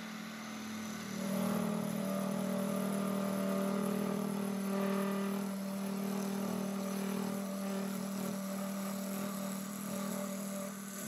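Wood lathe running with a steady motor hum, and a gouge cutting into the spinning wood from about a second in.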